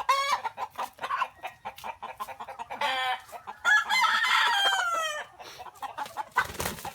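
Native chickens clucking, with a rooster crowing about three seconds in: a long call that falls away at the end. A brief rustle of noise comes near the end.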